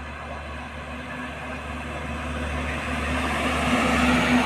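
A road vehicle approaching: its engine hum and tyre noise grow steadily louder over the last couple of seconds.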